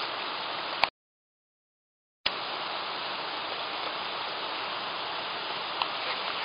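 Steady rushing of a river flowing below. The sound cuts out completely for about a second and a half shortly after the start, then comes back unchanged.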